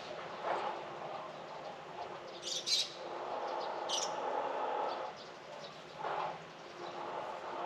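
A small bird chirping, a quick pair of calls and then a single call over a second later, over a low background noise that swells and fades a couple of times.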